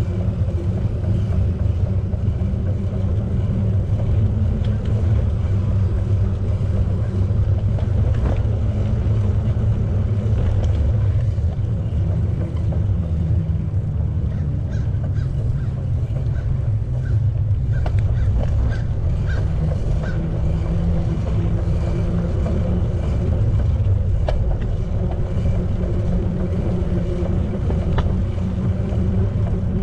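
Steady low rumble of wind buffeting the microphone while riding a bicycle, with a few faint chirps about halfway through.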